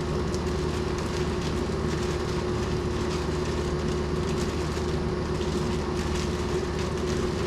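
A steady mechanical hum with a constant tone runs throughout, over light crackling and rustling of wood shavings being put into a wooden nest box.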